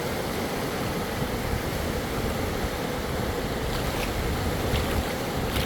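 Floodwater rushing down a wadi in strong flow after heavy rain, a steady roar of water.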